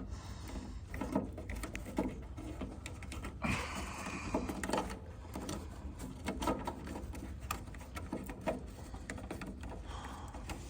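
Irregular light clicks and knocks of hands working an old starter solenoid loose from its metal bracket inside a riding tractor, with a short scraping rustle about three and a half seconds in.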